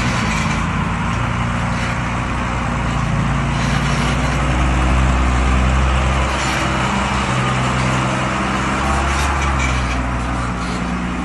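Vehicle engine running with a steady low rumble under an even hiss of road or wind noise.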